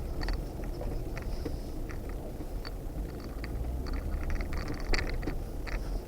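Vehicle running with a low steady rumble, overlaid by irregular sharp clicks and scrapes, the loudest about five seconds in.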